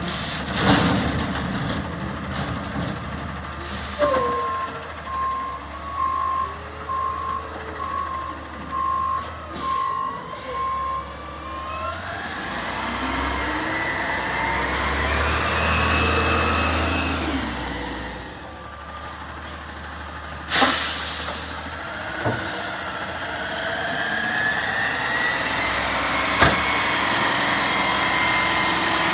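Garbage truck backing up with its reversing beeper sounding steadily for the first dozen seconds, then the engine and drivetrain whining up in pitch as it pulls away. An air-brake hiss comes about two-thirds of the way through, followed by a sharp knock and another rising engine whine near the end.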